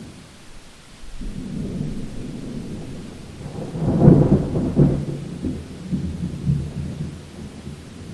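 Thunder rumbling in a rainstorm, building about a second in, peaking with sharper cracks around four to five seconds in, then rolling away, over rain.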